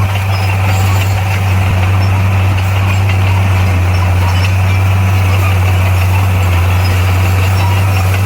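Komatsu bulldozer's diesel engine running steadily, a constant deep drone.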